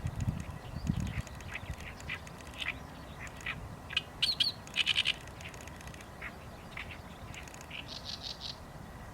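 Wild birds calling: a run of short, harsh calls, loudest about four to five seconds in and again a little after eight seconds.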